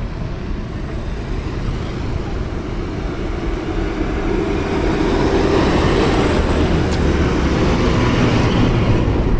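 A convoy of trucks driving past: a steady engine and road rumble that grows louder about halfway through as the trucks come closer.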